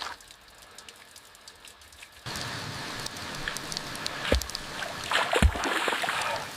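Steady rain noise that starts suddenly about two seconds in, with two heavy thumps a second apart partway through.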